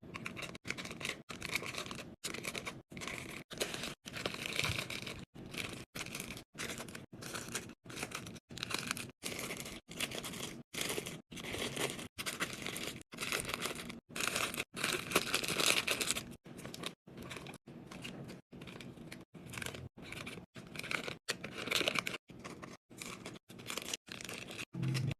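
Plastic packaging rustling and crinkling as groceries are handled and unpacked, chopped by frequent abrupt short silences where the clips are cut together.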